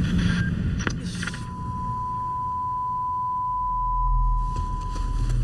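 A single steady high beep-like tone, held for about four seconds and cut off just before the music returns, with a low rumble swelling beneath it from about halfway. It is a sound-effect break in a K-pop song's music video.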